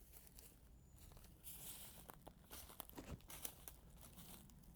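Faint crinkling and crackling of dry material, with scattered sharp clicks, picking up about a second and a half in.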